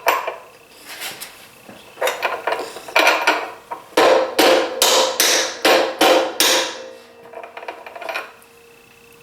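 Mallet blows on a metal socket, driving a planer cutter-head bearing onto its seat by the inner race: a few spaced blows, then a quick run of about seven heavy strikes with a short metallic ring, then a handful of lighter taps near the end.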